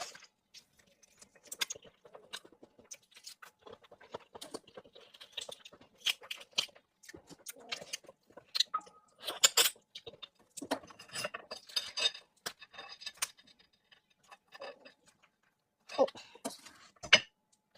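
Close-up eating sounds of shellfish: irregular crackling and sharp snaps as a langoustine's shell is broken and peeled, mixed with chewing and wet mouth noises. The loudest cracks come about halfway through and again near the end.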